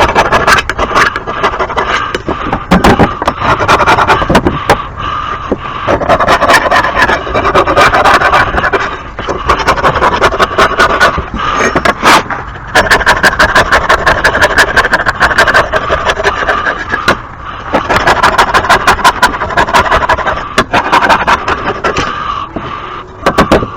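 Scraping caked grass clippings off a Poulan lawn mower's deck: rapid, irregular scrapes and knocks of a tool against the metal, in several bouts with short pauses.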